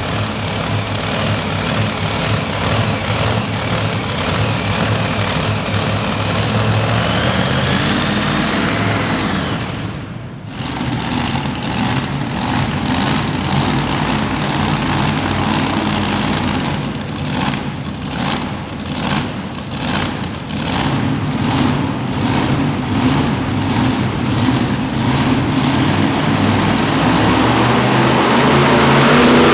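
Super modified two-wheel-drive pulling truck's engine running hard under load, with a rising whine about eight seconds in and a brief dip about ten seconds in. Later the engine note turns choppy and stuttering before building again near the end.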